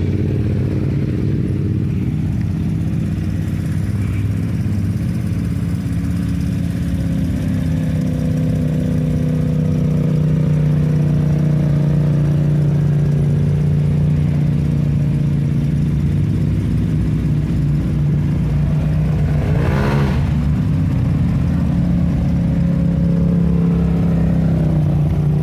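ATV engine running steadily as it is ridden, its pitch drifting slowly, with a brief drop and rise in pitch about twenty seconds in.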